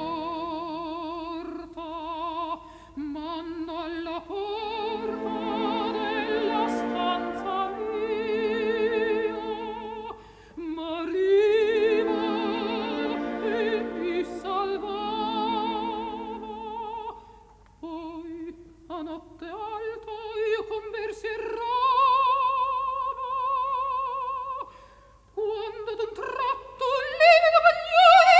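Operatic singing in a high voice, with strong vibrato, over orchestral accompaniment. There are short pauses between phrases, and the music swells toward the end.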